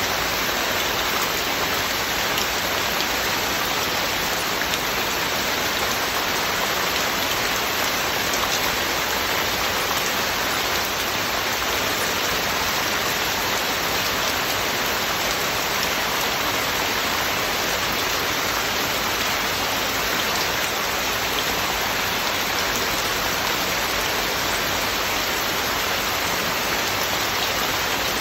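Heavy, steady rain falling and pattering on surfaces, a continuous even hiss with fine drop ticks and no thunder.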